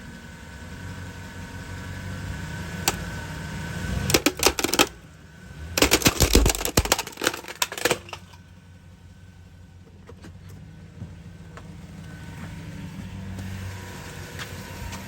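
Truck engine running as the truck rolls over an electric heater, crushing it: a burst of cracking and crunching about four seconds in and a louder, longer one about six seconds in, then the engine runs on steadily.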